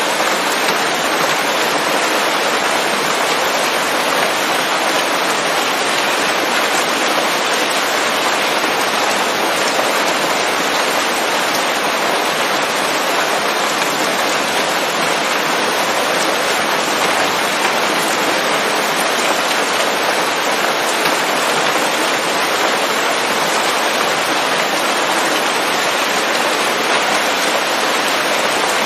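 Steady rain falling on leaves, a dense even hiss of drops.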